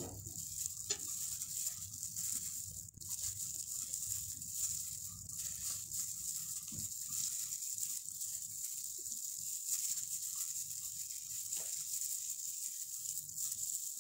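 Close-up eating sounds: chewing and lip smacks with scattered small clicks as pieces of fried tilapia are eaten by hand, over a steady hiss.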